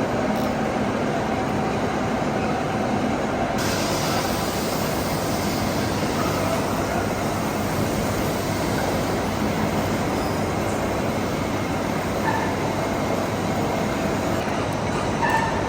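Steady running noise of machine-shop machinery, with the hiss growing brighter about three and a half seconds in.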